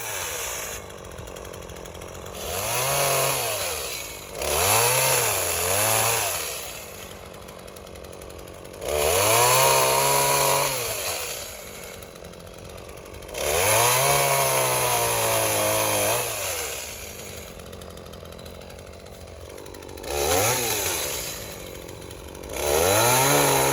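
Small Echo two-stroke chainsaw revving up about six times while cutting a branch. The pitch rises and falls with each burst and drops back to idle in between.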